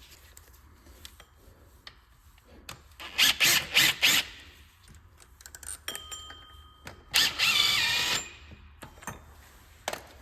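Cordless power tool run in short bursts to loosen bolts on the power steering pump and belt tensioner: four quick bursts about three seconds in, then a longer run of about a second with a wavering whine about seven seconds in, with small clicks of tool and parts between.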